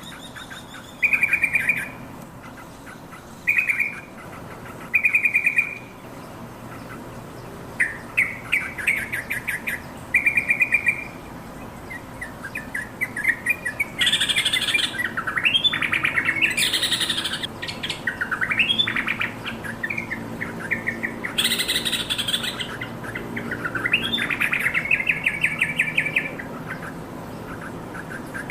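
Yellow-vented bulbul calling and singing. It starts with short, rapid rattling trills, each about a second long, and turns about halfway through into louder, bubbly chattering phrases with quick rising notes.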